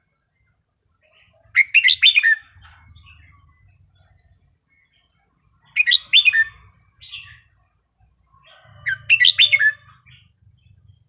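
Red-whiskered bulbul singing three short, rich warbled phrases, each about a second long, a few seconds apart.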